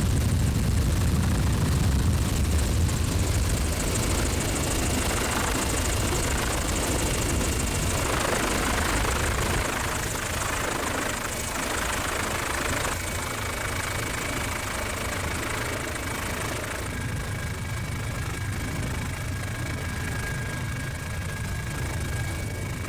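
Helicopter turbine and rotor noise heard from inside the cabin: a steady low drone with a hiss over it.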